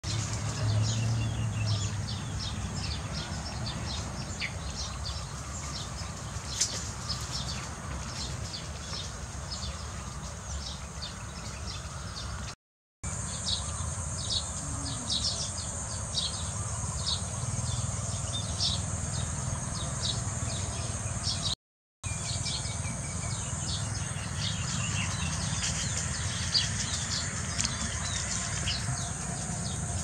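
Many small birds chirping busily in quick short notes, over a steady high insect-like hiss and a low rumble. The sound drops out twice briefly, about 13 and 22 seconds in.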